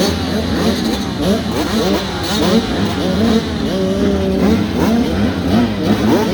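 Several pit bike engines revving hard during a race, many overlapping pitches rising and falling quickly as the riders throttle on and off.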